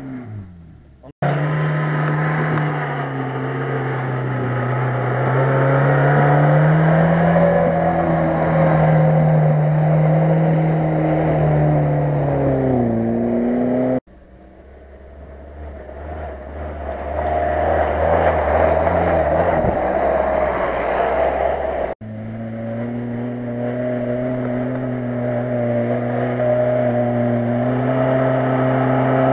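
Off-road 4x4 engines driving under load through a muddy field, in three takes broken by sudden cuts. In the first, the engine pitch rises and falls as the driver works the throttle. In the last, a Lada Niva's engine holds a steady note that slowly climbs.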